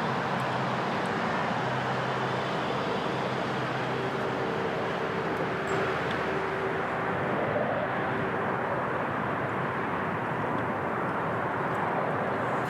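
A steady engine rumble with a low hum, one tone in it holding steady for a few seconds in the middle.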